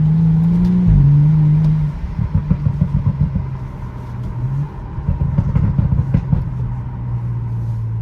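A BMW N55 turbocharged inline-six running through a muffler-deleted straight-pipe exhaust, with a super deep tone while driving. It pulls with rising pitch and shifts about a second in. Then, off the throttle, it breaks into a couple of seconds of irregular crackling burbles before settling to a low steady drone.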